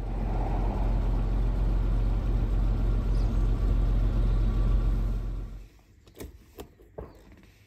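Jaguar XJ6 4.2's straight-six engine idling steadily, a low even note that cuts off abruptly near the end. Three sharp clicks follow.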